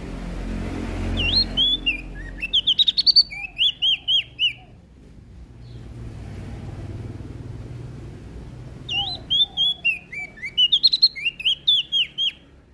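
A prenjak daun Lombok singing: two bursts of quick, sweeping chirps, the first about a second in and the second about three quarters of the way through. A low, steady rumble sits underneath.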